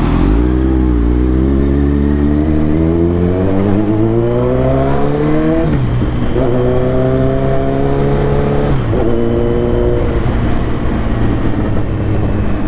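Kawasaki Z900's inline-four engine pulling hard under acceleration: the revs climb in one gear for about five seconds, then two upshifts, each a sudden drop in pitch, the second followed by a steady cruise.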